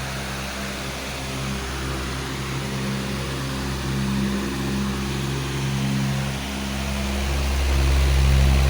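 Powerful electric fan running steadily: a broad rush of moving air over a low motor hum that wavers, swelling a little louder near the end.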